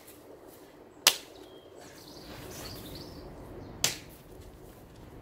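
Staffordshire billhook chopping branches off a small spruce trunk: two sharp chops about three seconds apart, with faint rustling of branches between them.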